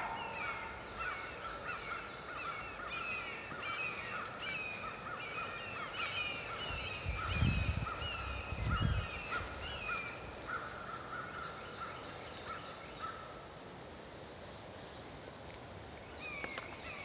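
A bird calling in the background, one short falling note repeated about twice a second for the first ten seconds, over a faint steady higher tone. Two low dull thumps come about halfway through.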